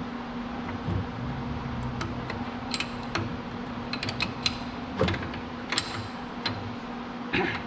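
Light metallic clicks and taps, several with a short ringing ping, as steel tooling is handled, likely while the larger drill bit is being set up. They sound over a steady low machine hum, with a brief scrape near the end.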